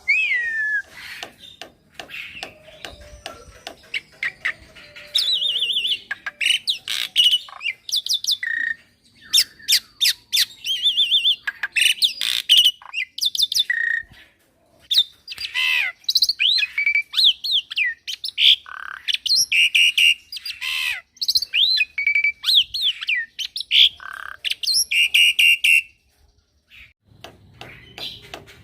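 Young black-winged myna (jalak putih) singing a long, varied song: rapid strings of whistles, sliding notes, harsh squawks and clicking chatter, laced with learned filler phrases. The song breaks off briefly about halfway and turns sparser and quieter near the end.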